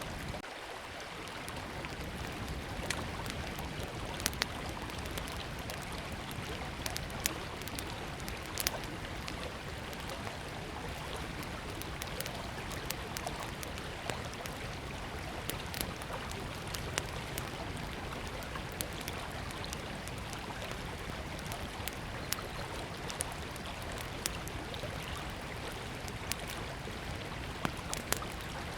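Small campfire crackling, with frequent sharp pops scattered through it, over the steady rush of a flowing river.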